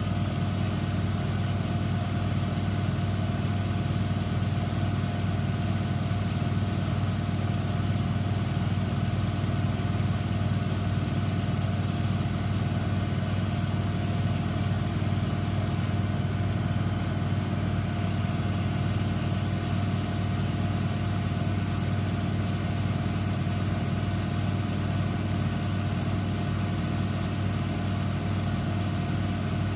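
Eudora Supernova EU 1001 washing machine running with a steady low motor hum and a few higher whining tones. The drum holds one speed throughout with no stop-start tumbling, as in its final spin.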